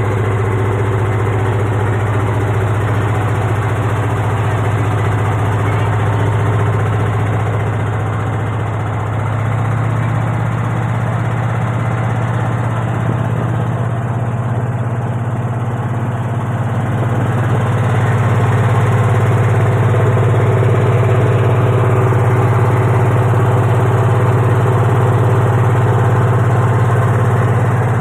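Boat engine running steadily, picking up slightly in pitch and loudness about nine seconds in and again around seventeen seconds.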